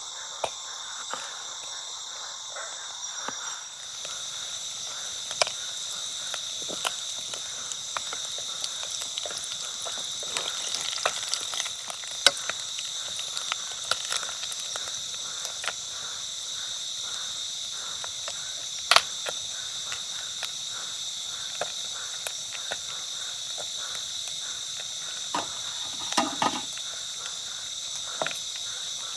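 Steady, high-pitched chorus of night insects such as crickets, with scattered sharp clicks and crackles over it.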